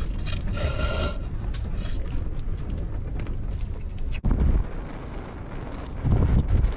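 Strong gusty wind buffeting the microphone: a steady low rumble with heavy low blasts, one just after a brief sharp break about four seconds in and another near the end.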